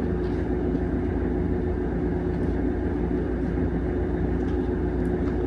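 A steady low machine hum with a constant tone, running evenly throughout.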